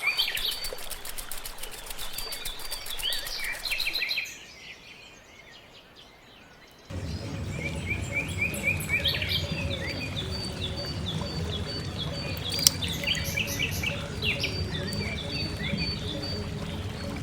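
Birds chirping over and over. About seven seconds in, after a brief quiet dip, a steady low hum joins them. A single sharp click comes about halfway through.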